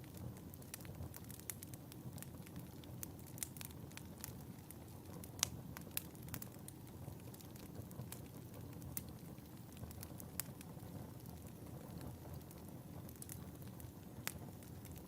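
Wood fire burning in a fireplace: a steady low rumble of flames with scattered sharp crackles and pops, the loudest pop about five seconds in.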